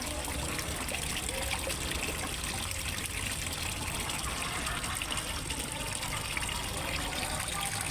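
Water from a small pond waterfall splashing and trickling steadily into a fish pond.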